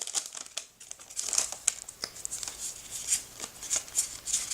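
Foil Pokémon booster pack wrapper crinkling as it is torn open and worked apart by hand, a string of short, irregular crackles.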